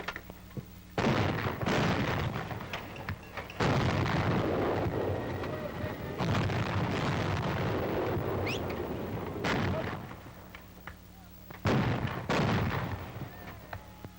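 Battery of 90 mm antiaircraft guns firing a rapid series of shots: about six heavy booms, each with a long rumbling tail, running into one another.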